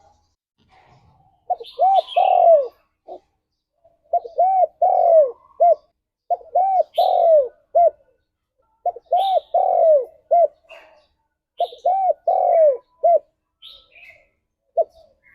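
Spotted dove (tekukur) cooing, five phrases about every two and a half seconds, each a few short coos and one long coo that falls in pitch. Short high chirps from another small bird sound between the phrases.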